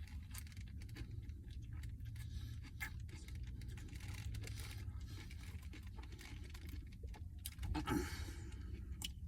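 Faint crackling and rustling of a sub sandwich and its paper wrapper being handled, over a low steady hum. There is a louder rustle about eight seconds in.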